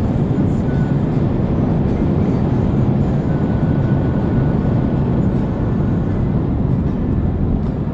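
Car being driven fast: the engine running with road and wind noise, a loud, steady low rumble.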